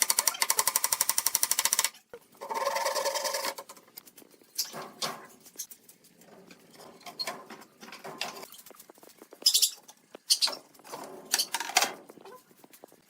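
Workshop tool sounds: a power tool chatters rapidly for about two seconds, then a motor whines steadily for about a second and a half. After that come scattered knocks, taps and scrapes of wood being handled.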